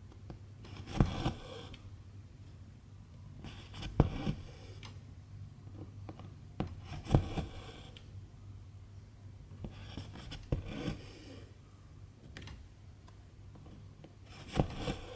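Silk embroidery thread being stitched through cross-stitch fabric. Each stitch gives a sharp tick as the needle pierces the fabric, then a short rasping swish as the thread is drawn through, five times at about three-second intervals.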